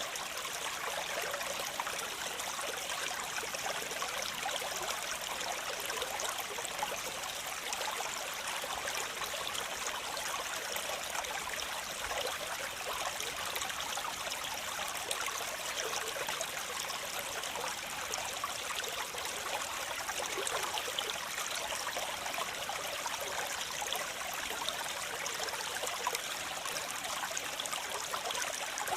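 Waterfall: water falling and splashing in a steady, unbroken rush, with a hissing, splashy quality and little deep rumble.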